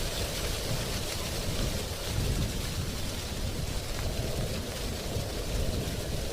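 Wind blowing through tree leaves, a steady rustling hiss with a deep rumble underneath that rises and falls a little.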